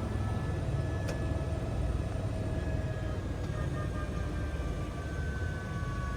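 Helicopter running: a steady low rumble with faint whining tones that slowly drop in pitch.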